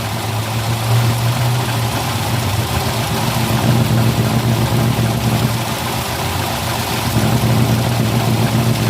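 Ford Ka engine idling with exhaust gas escaping through two holes in the exhaust pipe, giving a steady, deep noise over the engine hum. The exhaust leak is what had been taken for a strange noise in the engine.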